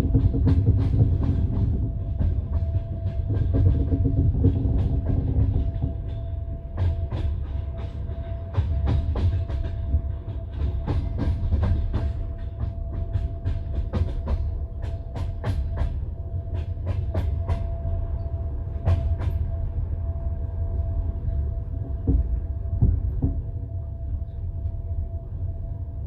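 Passenger train wheels rolling over the rails, heard from inside the carriage. A steady low rumble runs under irregular clicks of the wheels over rail joints, which come thickest in the middle and thin out near the end, with a faint steady hum.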